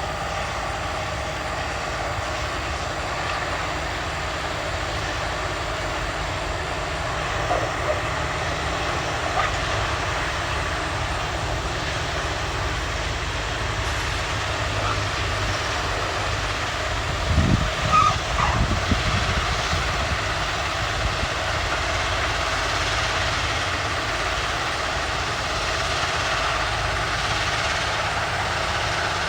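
Norfolk Southern ballast cleaner at work on the track, a steady heavy machinery noise, with a few low thumps a little past halfway.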